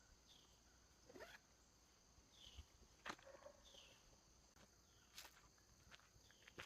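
Near silence, broken by a few faint clicks and a handful of soft, short high chirps.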